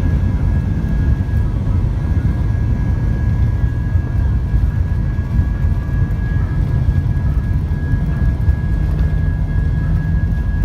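Steady cabin noise aboard an Airbus A320 in flight: a loud, even rumble of engines and airflow, with a faint steady high whine running through it.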